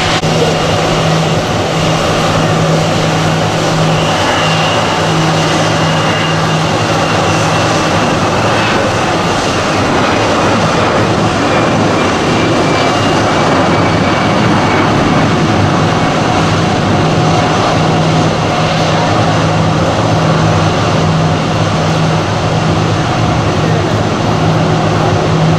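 Airbus A340-300's four CFM56 jet engines running: a loud, steady rush of noise with a low hum and a faint high whine that slowly drops in pitch.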